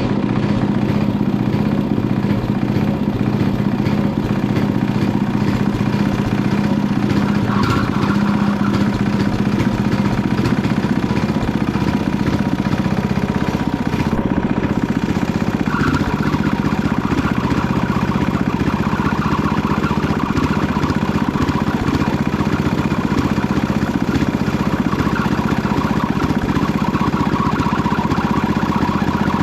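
Panzer T70 garden tractor's small engine running steadily while plowing.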